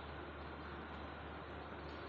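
Steady faint hiss with a low hum underneath: recording background noise with no distinct event.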